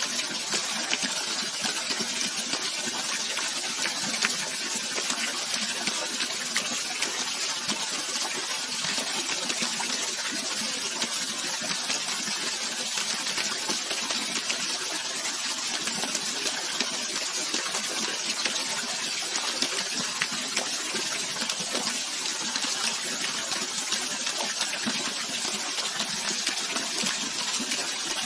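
Steady rushing of flowing water, an even hiss with little low rumble and no change throughout.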